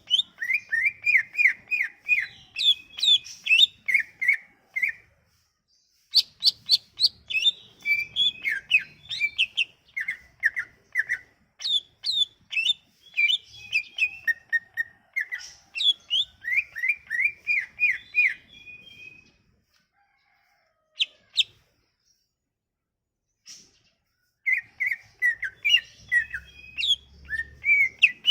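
A songbird singing fast, varied runs of chirped and whistled notes in phrases of many quick notes, with a short pause about five seconds in and a longer silent gap in the last third before the song resumes. It is a lure song meant to set a silent green leafbird singing.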